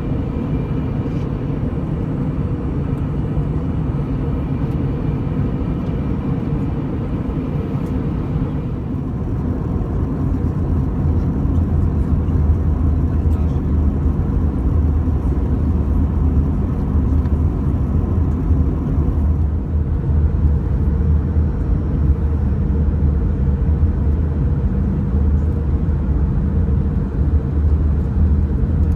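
Cabin noise of an Airbus A320-214 in flight: the steady drone of its CFM56 engines and the rush of air over the fuselage, with a few steady tones. Some of the higher tones fade about eight seconds in, and a deep rumble grows louder from about ten seconds in.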